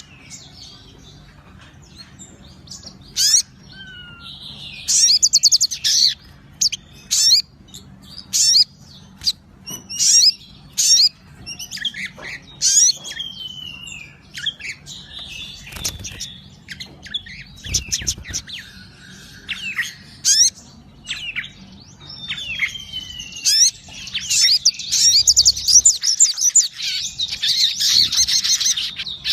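Sogon songbird singing vigorously: a busy run of sharp chirps, quick falling whistles and fast high trills, turning into a dense, continuous trill over the last few seconds.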